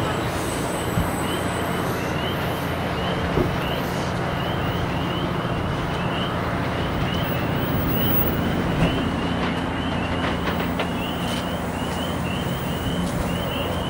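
Metro-North commuter train pulling away, its F40PH-3C diesel locomotive giving a steady low engine drone under the rumble of the wheels on the rails, with a few light clicks from the track. A faint high chirp repeats about twice a second.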